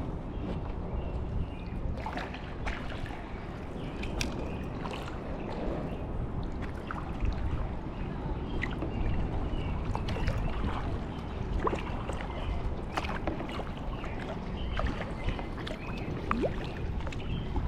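Kayak paddling: the paddle blades dip and water drips and splashes in many small sharp ticks, over a steady low rumble.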